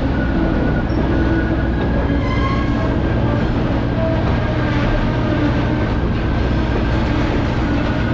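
Passenger train rolling along the track: a steady rumble of wheels on rail, with faint high-pitched squeals that come and go.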